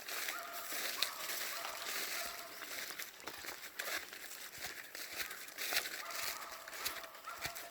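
Footsteps crunching and crackling through dry leaves and twigs on a forest path: the slow, uneven steps of someone walking downhill under a load of firewood.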